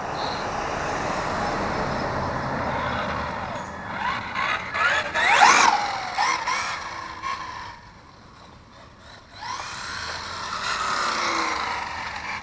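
Brushed electric motor and drivetrain of a Traxxas 4-Tec 3.0 radio-controlled car whining as it speeds up and slows down while being driven around. The whine is loudest about five seconds in, rising and falling, drops away around eight seconds, then builds again near the end.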